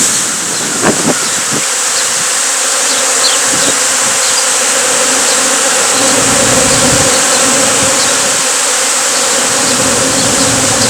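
A swarm of honey bees buzzing loudly and steadily, a dense hum of many wingbeats close by.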